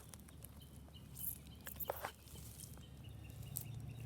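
Outdoor background with scattered rustles and clicks of leaves and handling, and faint high chirps of birds or insects; a low steady hum joins about three seconds in.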